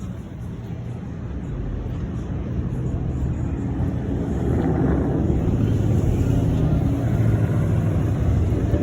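A car driving: low engine and road rumble that builds steadily louder.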